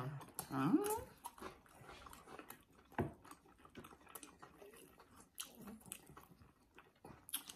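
Faint close-up chewing, with mouth smacks and clicks, of a person eating fried meat. A brief pitched vocal sound comes about half a second in.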